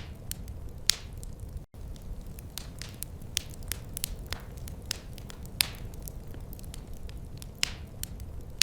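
Wood fire crackling: irregular sharp pops and snaps over a steady low rumble of burning logs, with a split-second gap in the sound about two seconds in.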